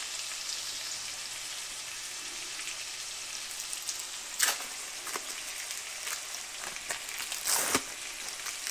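Ground-beef patties and chopped onions frying in their grease in a cast iron skillet: a steady sizzle, with a few sharper pops of spattering fat about halfway and near the end.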